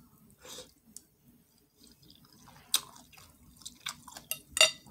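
A person chewing food with wet mouth smacks and a few sharp clicks, the loudest near the end.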